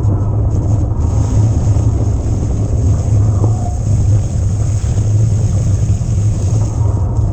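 Steady low rumble of wind and riding noise on a helmet or body-mounted camera microphone as an electric mountain bike rolls along a trail, with no break or change in level.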